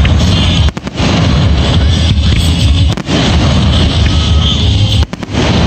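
Fireworks shells bursting alongside music, recorded so loud that the sound is overloaded and distorted into a near-continuous heavy rumble, with brief dropouts about a second in, at three seconds and near the end.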